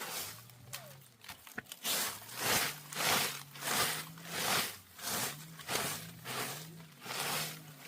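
Regular rasping strokes, roughly two a second, each swelling and fading, over a faint low hum that wavers in pitch.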